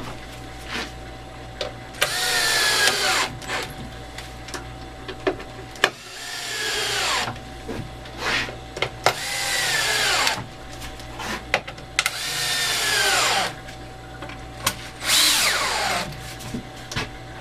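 Power drill driving deck screws into pine, in five separate runs of a second or so each. The motor's whine drops in pitch as each run ends, with small handling clicks in between.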